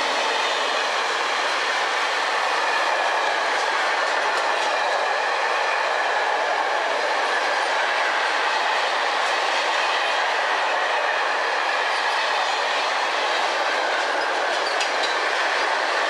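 Freight train of tank wagons rolling steadily past: continuous rumble and hiss of wheels on rail with clickety-clack over the rail joints, a faint wavering high tone running through it, and a few sharper clicks near the end as the last wagons go by.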